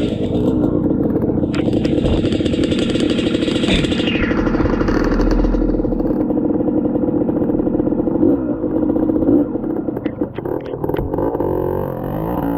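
Dirt bike engine running under load on a rough trail, its note holding steady for most of the stretch, then wavering up and down with a few clatters from the bike near the end.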